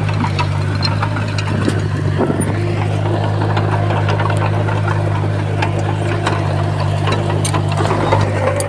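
Komatsu bulldozer's diesel engine running steadily under load, with scattered clicks and clanks over it.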